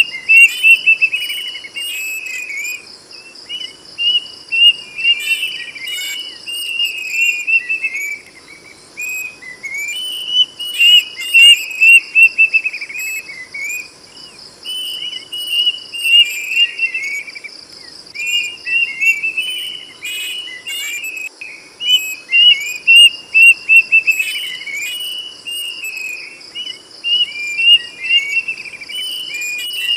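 Kedasih cuckoo singing loud, clear whistled phrases: runs of quick notes that slide downward, in bouts of a few seconds with short pauses between. A steady high insect trill runs underneath.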